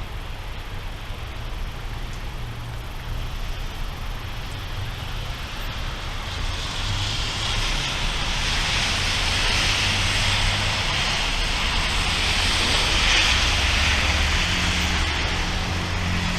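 Thunderstorm: rain hiss over a low rumble, both getting louder about six seconds in and staying up.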